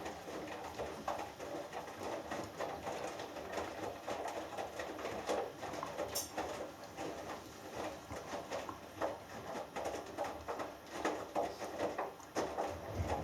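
Hoover Dynamic Next washing machine in the wash phase of a cotton 60 °C cycle: the drum is tumbling a wet load, and water sloshes in irregular surges.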